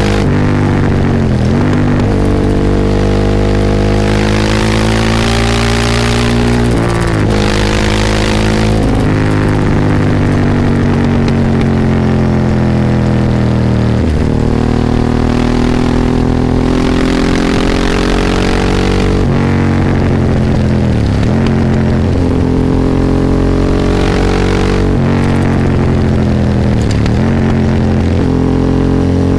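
Ducati 998's L-twin engine heard from onboard while riding, its pitch climbing through the revs and dropping sharply several times, as at gear changes.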